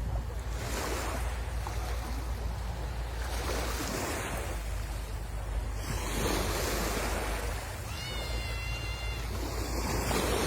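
Sea waves breaking and washing in, the surf swelling and easing in repeated surges. A brief high steady tone sounds about eight seconds in.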